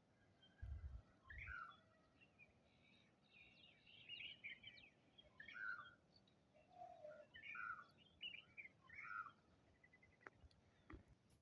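Small birds chirping and twittering faintly, with many short calls scattered through, and a few soft low thumps about a second in.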